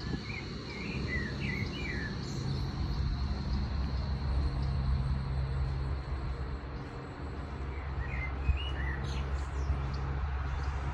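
Small birds chirping in two short bursts of quick notes, near the start and again past the middle, over a steady low hum and a thin, steady high whine.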